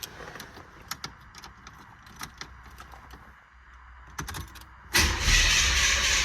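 Light clicks and key jingles, then about five seconds in a starter cranks a cammed 305 small-block Chevy V8, which comes in suddenly and loud. This is the first start after a damaged spark plug wire and boot were replaced to cure a rough-idle misfire.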